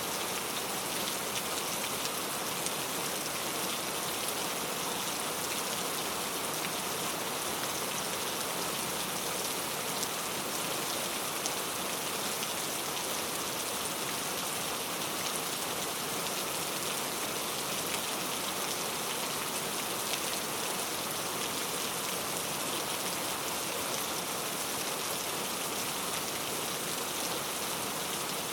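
Steady rain falling and pattering on a surface, an even hiss scattered with tiny drop impacts.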